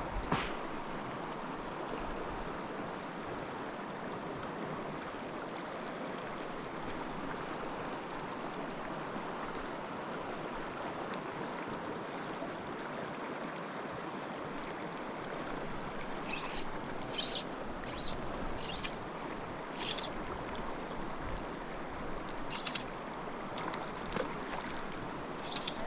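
Steady rushing of a small mountain stream. In the second half, about eight irregular sharp clicks.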